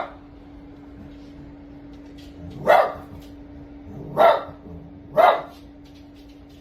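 A dog barking: one bark right at the start, then three more about a second or so apart in the second half, over a faint steady hum.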